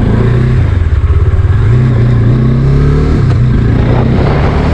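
Motorcycle engine running on the move, its note rising and dropping a few times as it speeds up and changes gear.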